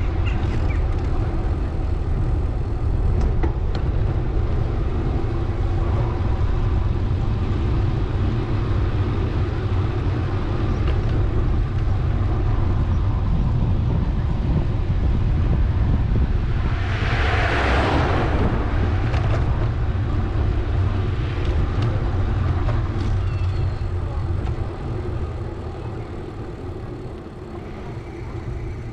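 Steady low rumble of wind and rolling noise on a moving bicycle's camera microphone, with street traffic; a vehicle passes close about two-thirds of the way in, a rising and falling hiss. The rumble eases off near the end.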